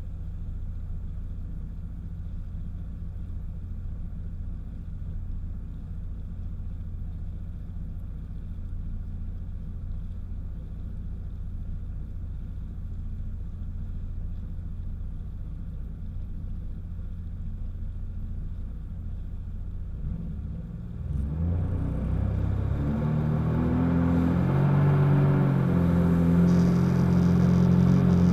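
Jet ski engine running with a steady low rumble, then opening up about three-quarters of the way through: the engine note comes in clearly and gets louder, stepping up in pitch.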